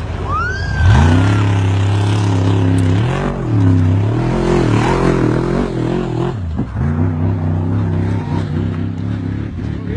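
Off-road race truck's engine revving hard under load. Its pitch drops and climbs back near the start and again about six and a half seconds in, wavering in between.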